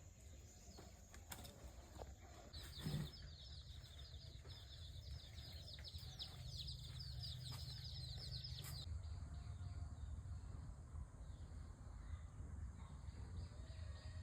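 A bird calling in a rapid run of high, quick, downward-slurred chirps for about six seconds, starting shortly after a soft thump, over a faint low rumble.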